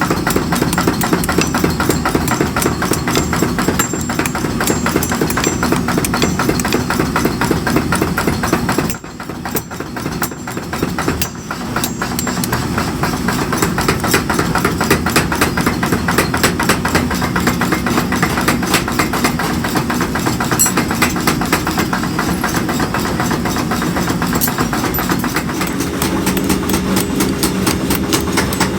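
Workshop machinery running with a fast, even knocking over a steady low hum. It drops quieter for a couple of seconds about nine seconds in, then runs on.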